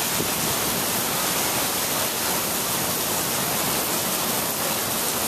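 Heavy downpour of rain on pavement and street, a steady rushing hiss.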